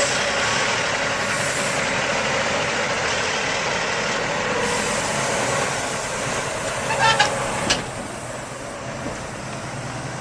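Heavy truck passing on the road, engine and tyre noise loud for about six seconds, then easing off. Brief high chirps and a sharp click come about seven seconds in.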